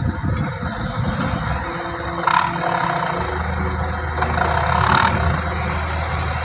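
Dump truck engine running steadily, settling into an even low drone about halfway through, with two brief louder higher-pitched noises over it.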